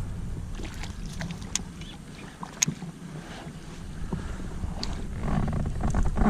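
Wind noise on the microphone, a low steady rumble, with a few sharp light clicks and knocks, the two clearest about a second apart in the first half.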